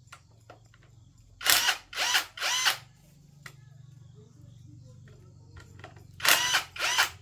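A power drill run in three quick trigger pulses, each spinning up and down in pitch, then three more pulses a few seconds later, over a faint low hum.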